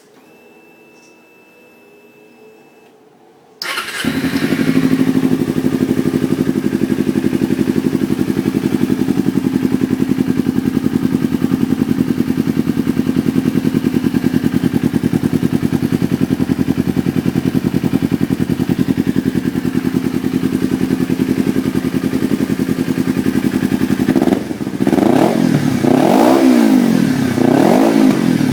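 Kawasaki Ninja 250R parallel-twin engine, fitted with a DBS full-system exhaust. It starts up a few seconds in and idles steadily, then is revved in several quick blips near the end.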